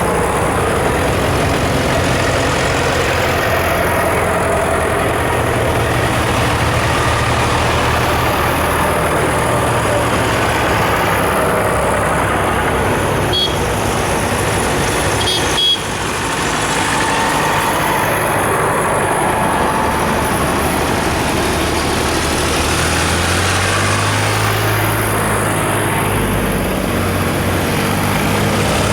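Diesel tractor engines running as a line of tractors drives past one after another, the engine note shifting as each goes by. A couple of short sharp sounds come about halfway through.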